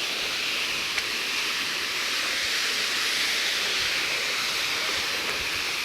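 Waterfall: a steady hiss of falling water, with no change in level, most of it in the higher range.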